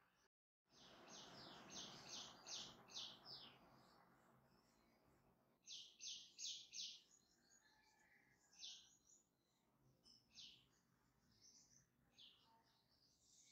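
Faint bird chirping: runs of short, high chirps, about three a second, with scattered single chirps later and a soft hiss under the first few seconds.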